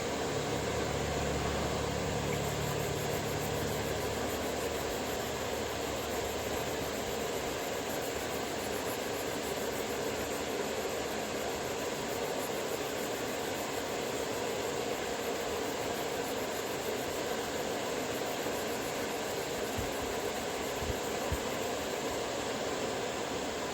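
Steady whir of a running machine, with a low hum that fades out about four seconds in and two faint clicks near the end.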